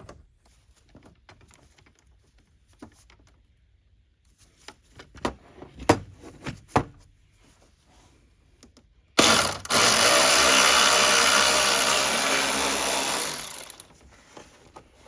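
A few light clicks and knocks of hand tools and parts, then a handheld power tool runs steadily for about four and a half seconds, easing off slightly before it stops.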